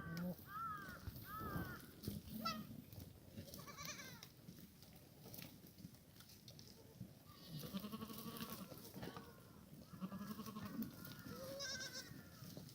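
Black goats bleating: a string of separate calls from several animals, some overlapping, with a few short knocks in between.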